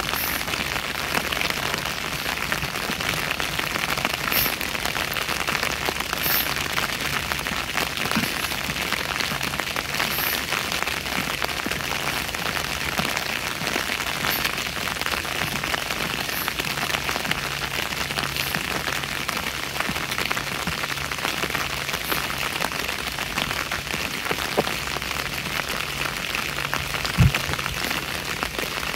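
Steady rain falling, an even hiss with no letting up, with a single brief low thump near the end.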